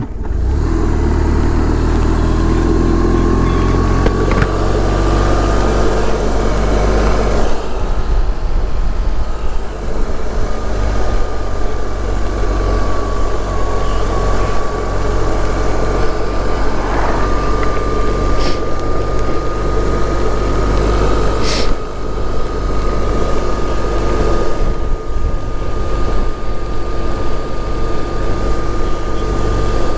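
BMW R1200 boxer-twin motorcycle running on the road, its engine drone steady under a rush of wind noise. A thin high whine rises over the first few seconds, then holds steady.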